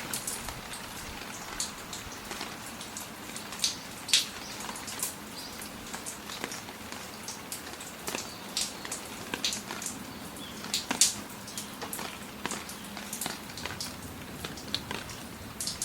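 Rain falling, a steady hiss with big drops landing irregularly on a nearby surface, one sharp drop louder than the rest about eleven seconds in.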